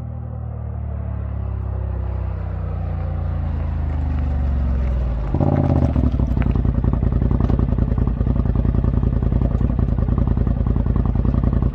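Vehicle engine running through a newly fitted aftermarket exhaust. Its note slowly falls in pitch, then about five seconds in it changes abruptly to a louder, evenly pulsing drone.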